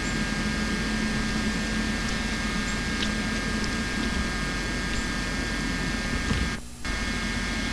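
Steady hiss with a low hum, broken by a brief dropout near the end.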